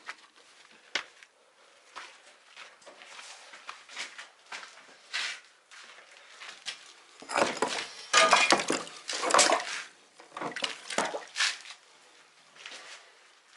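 Clinking and scraping of a bricklayer's trowel working mortar on brick, with scattered short knocks. The loudest, busiest stretch comes about seven to ten seconds in.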